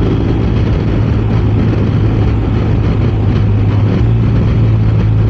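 BMW R 1250 RS boxer-twin engine running steadily at cruising speed, mixed with wind and road noise.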